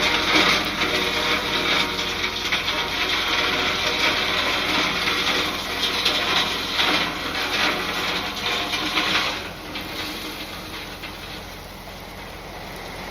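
Dump truck unloading: a load of material sliding and scraping out of the raised bed in a steady rush that dies down about nine and a half seconds in.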